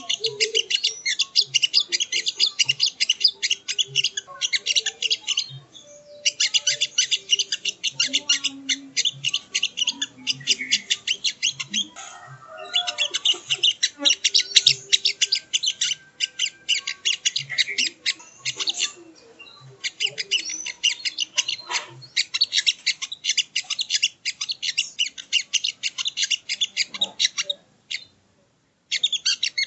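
Crested jay (sogon) giving rapid rattling, chattering calls in long runs of several seconds. Short breaks fall between the runs, and a brief silence comes near the end.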